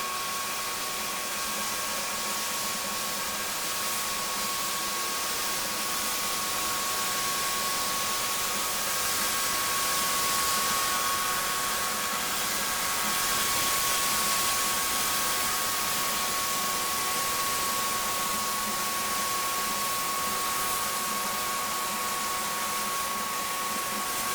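Pressure washer running continuously, its water jet spraying with a steady hiss over a constant high whine from the machine, swelling slightly a couple of times.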